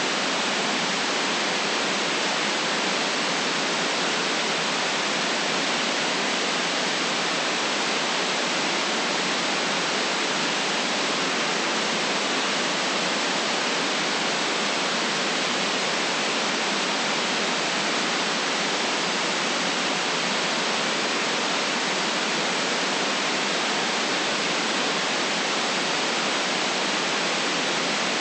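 Steady, unchanging white noise: an even hiss with no low rumble and no separate events.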